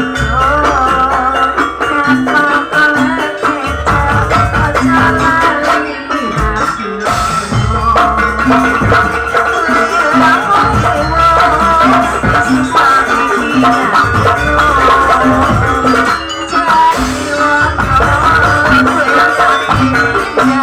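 Live traditional folk music: percussion with rattles and a melody line over a steady bass beat.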